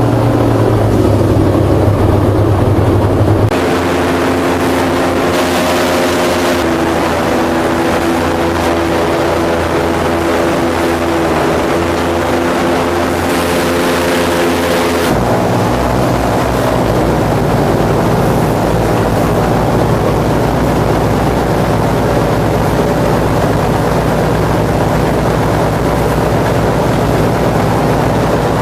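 Airboat's engine and propeller running loud and steady, its pitch shifting as the engine speed changes about three and a half seconds in and again about fifteen seconds in.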